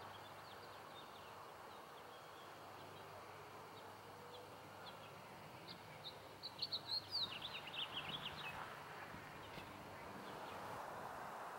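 A songbird singing a quick run of high, falling chirps about halfway through, over faint steady background noise with a low hum; a few fainter chirps come earlier.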